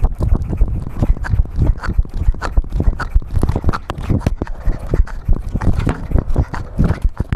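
Cat-worn action camera knocking and rubbing as the cat moves, giving a rapid, irregular run of thumps and clicks.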